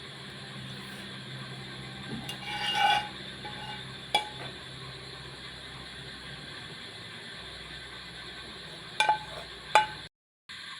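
Several short clinks, like dishes or utensils being set down or knocked together, over a steady low hum. One cluster comes about three seconds in, a single clink near four seconds, and two more near the end. The sound drops out briefly just before the end.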